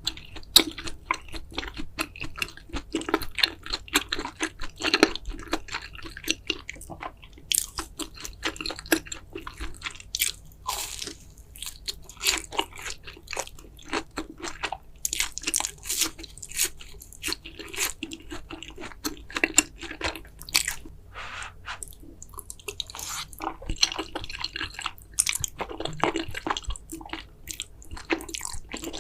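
A person eating Carbo Fire noodles close to the microphone: a continuous, irregular stream of wet chewing and biting clicks.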